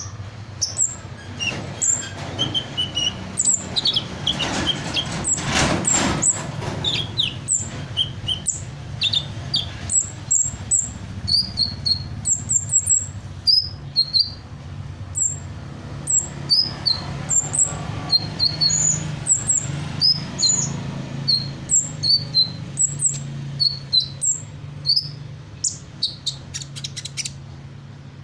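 A sunbird singing in full voice, mimicking other birds' calls: a quick, steady run of short high chirps and whistled notes, several a second, thickest about five seconds in.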